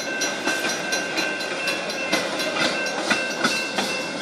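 Railroad crossing warning bell ringing continuously as the crossing gates come down, a quick run of repeated strikes over a steady ringing tone.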